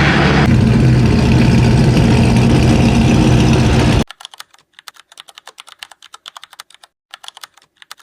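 A loud continuous sound with a steady low pitch cuts off abruptly about four seconds in. It is followed by a string of light, quick, irregular clicks like keyboard typing.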